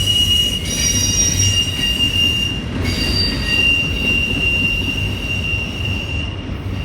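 A loaded rail train rolling past, its wheels squealing on the rail in a steady high tone over the rumble of the cars.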